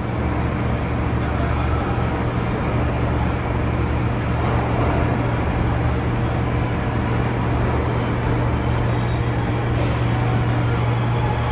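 New York City subway train sound: a steady low hum under a continuous rumbling hiss.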